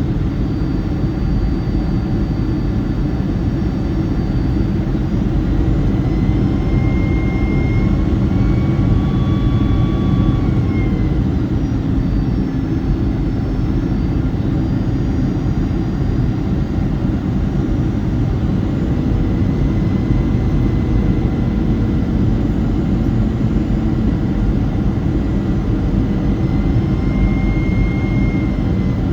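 Boeing 757-200's jet engines and airflow heard inside the cabin as a steady roar, with faint whining tones above it that drift slightly in pitch.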